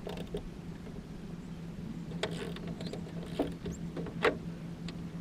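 Scattered clicks and knocks of hand-work on a light aircraft's wheel fairing, over a faint steady low hum.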